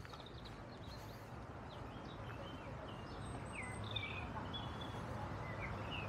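Small songbirds singing in short, quick chirps over a steady outdoor rushing noise that slowly grows louder.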